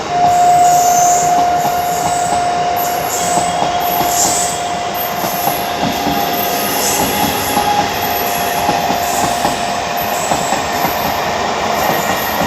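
MEMU electric train's horn sounding one long, steady note that fades away after about ten seconds, over the rumble of the train moving off.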